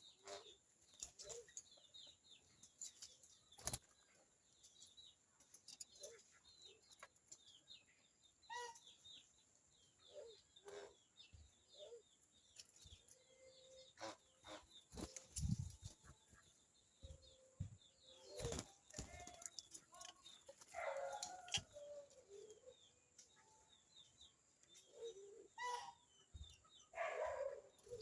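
Birds at a feeding tray, faint: scattered wing flaps and light taps, with soft high chirps and a couple of short lower calls near the end.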